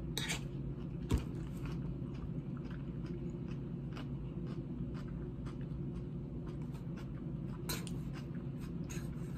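A person chewing a mouthful of raw salad, romaine lettuce and vegetables, with soft crunches scattered through, over a steady low background hum. A single sharp thump comes about a second in.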